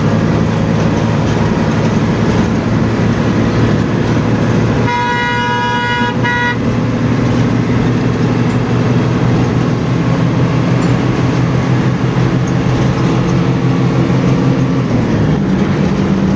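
Bus engine running steadily at highway speed with road noise. About five seconds in, a vehicle horn sounds in one blast of under two seconds. Near the end the engine note steps up in pitch.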